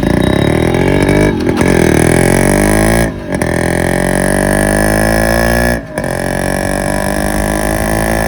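Yamaha RX two-stroke single-cylinder motorcycle engine, breathing through a silencer with its core altered, accelerating hard. Its pitch climbs, breaks off briefly about three seconds in and again about six seconds in, as gears are shifted, then climbs again.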